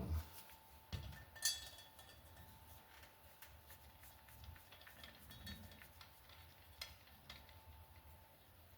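Small metal valve-train parts from a motorcycle cylinder head, such as valve caps and shims, clinking and tapping as they are handled. A sharp clink rings briefly about a second and a half in, with a few lighter ticks and quiet handling noise after it.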